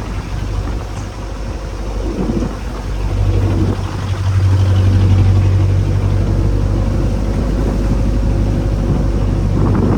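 A boat's engine running steadily, its drone getting louder about four seconds in.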